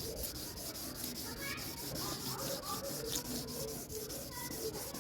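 Fine wet-and-dry abrasive paper rubbed by hand over a primed plastic car bumper in quick, even back-and-forth strokes: wet flatting the primer smooth before the colour coat.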